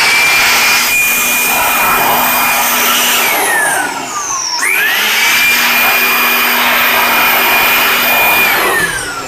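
Electric blower running at full speed, blowing dust out of a cassette player's mechanism, with a high motor whine over the rush of air. It is switched off about three seconds in and spins down with falling pitch, starts again a second or so later, and spins down again near the end.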